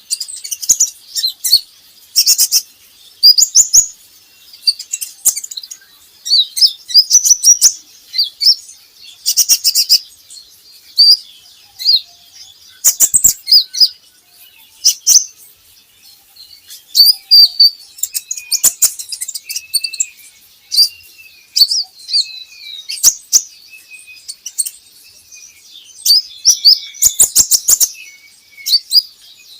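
Van Hasselt's sunbird (kolibri ninja) singing: quick bursts of high, thin chirps and sharp trills every second or two. Softer, lower warbling notes join in from about halfway through.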